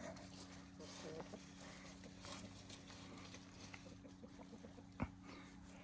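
Faint chickens clucking softly and scratching and pecking at the ground, with a steady low hum underneath. A single sharp knock about five seconds in.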